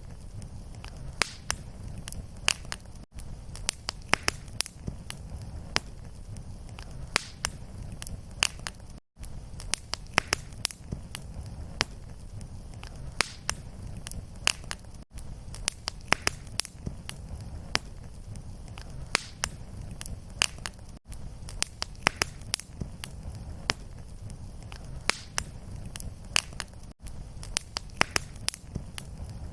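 Fireplace fire crackling and popping steadily, many sharp snaps over a low rumble. Brief gaps about every six seconds mark the seam where a short recording loops.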